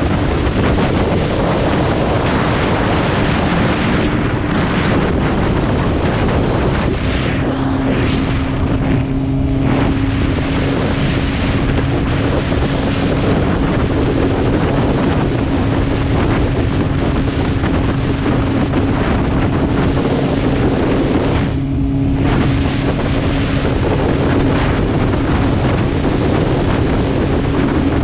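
Heavy wind buffeting the microphone on a moving motorcycle, with the engine's steady drone underneath. The drone drops slightly in pitch about seven seconds in, and the wind hiss eases briefly twice.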